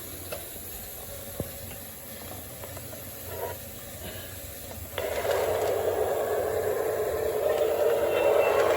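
O gauge model train setting off along the track: after a couple of faint clicks, a hissing rush starts suddenly about five seconds in and grows louder as the train gets going.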